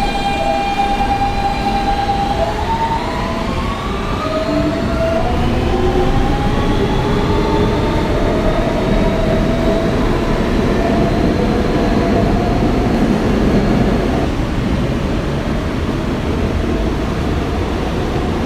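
Kawasaki R160B subway car with Siemens propulsion accelerating away from a station. The inverter-motor whine climbs in several steady tones over a constant wheel and track rumble, then fades about 14 seconds in as the train runs on at speed.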